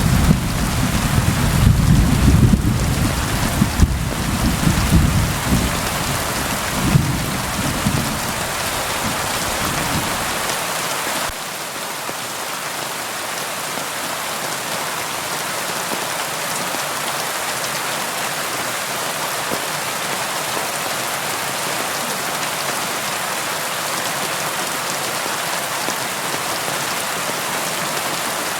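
Steady rain hissing, with thunder rumbling low underneath for the first ten seconds or so. About eleven seconds in the rumble cuts off abruptly, leaving the rain alone.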